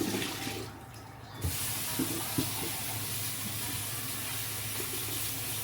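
Kitchen tap running water in a steady stream, turned on about a second and a half in, with a few light knocks under it.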